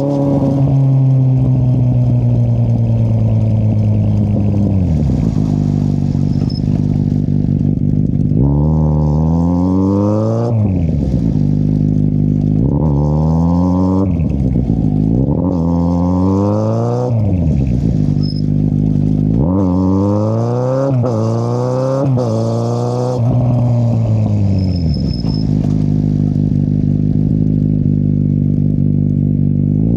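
2013 Kawasaki Z800's inline-four running through a loud Akrapovic exhaust with the dB killer removed. The engine note winds down at the start, then climbs and drops sharply about seven times as the bike is accelerated through the gears, before easing off and settling near the end.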